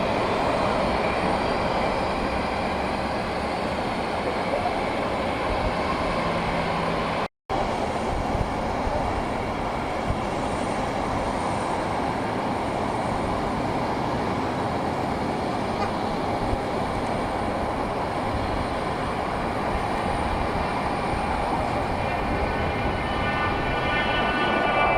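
Jet airliner engines running, a steady loud rushing noise that cuts out for an instant about a third of the way through. Near the end a whining tone rises above it.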